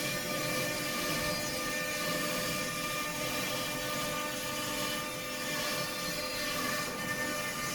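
CNC stone router running: the spindle gives a steady whine of several pitches over a constant noisy hum.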